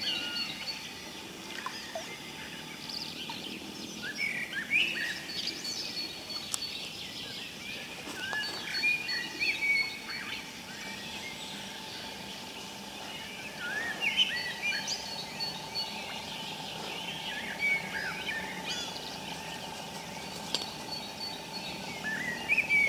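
Woodland birds singing in a spring chorus: many overlapping chirps and warbled phrases, with a thin high whistled note repeated every few seconds.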